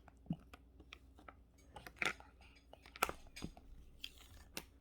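Scattered light taps and paper rustles as small craft parts are handled and set out on a table, with a few sharper clicks near the middle.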